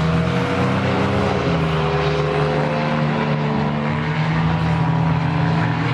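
Engines of several claimer race cars running together as the field laps the track: a steady drone of overlapping engine notes, some drifting slightly in pitch.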